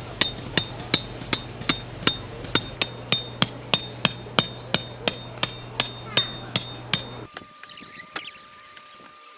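Hammer driving a tent peg: steady ringing metal strikes, about three a second, that stop abruptly about seven seconds in.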